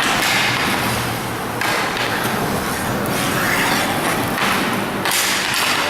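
Inline hockey play: a steady rush of skate wheels rolling on the rink surface, with a few sharp clacks of sticks and puck.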